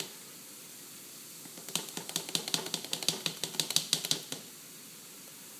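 Metal microwave grease filter rattling and clicking against the pot as it is shaken in boiling baking-soda water: a run of rapid, irregular clicks from about two seconds in until past four seconds. A steady faint hiss of the boiling water lies under it.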